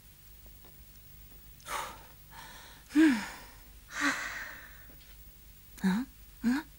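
A person's breathy gasps and sighs, four of them, two carrying a short falling voiced tone, followed near the end by two quick voiced grunts.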